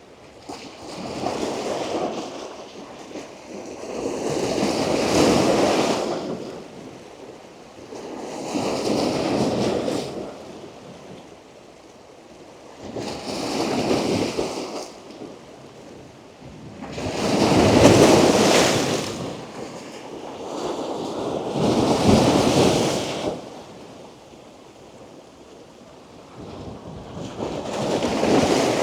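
Strong ocean surf breaking on rocks close to the waterline. The rushing water surges and ebbs about every four seconds, and the strongest wave comes about two-thirds of the way through.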